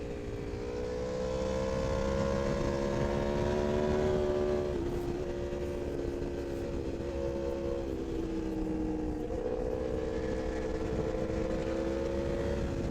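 Aprilia RSV4 superbike's V4 engine running at high speed, heard from the onboard camera over a steady rush of wind noise. Its pitch climbs slowly, drops suddenly about five seconds in, then holds and creeps up again.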